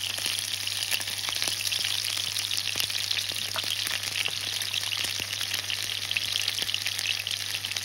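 Potato-wrapped zander fillets frying in hot oil in a pan: a steady sizzle with many small crackles and pops.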